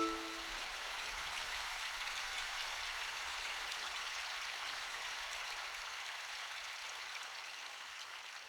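Steady rain falling in a forest, an even hiss of drops that slowly fades toward the end. The last of a sustained musical drone dies away just as it begins.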